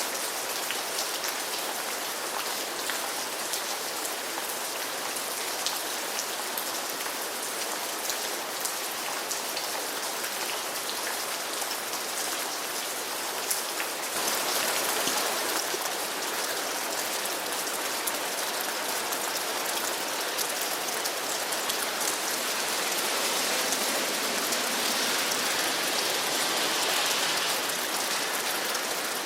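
Steady rain falling, a dense patter of drops hitting the surfaces around. It grows a little heavier about halfway through.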